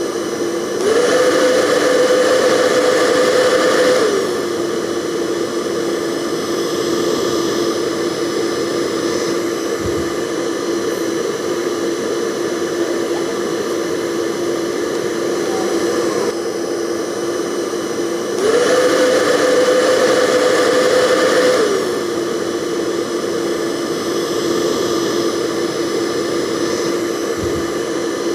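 Hair dryer running continuously with a steady motor whine and airflow hiss. Twice, near the start and about two-thirds of the way in, it steps up for about three seconds to a louder, higher pitch, then drops back.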